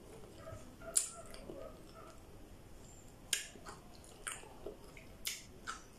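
A person biting into and chewing whole okra pods: a handful of separate sharp crunching clicks spread through the few seconds.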